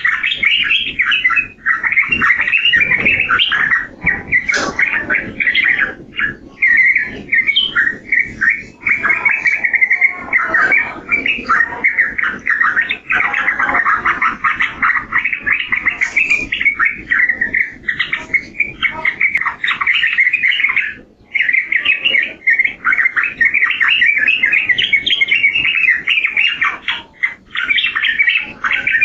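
Yellow-vented bulbul (trucukan) singing a fast, chattering, warbling song almost without pause, with one brief break about 21 seconds in.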